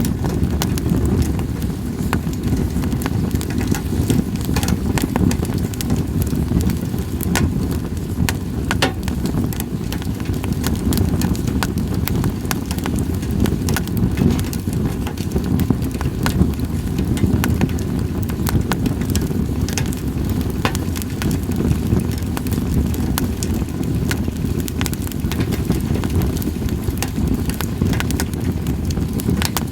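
Campfire of split sawtooth oak (kunugi) logs crackling, with many sharp, irregular pops over a steady low rumble.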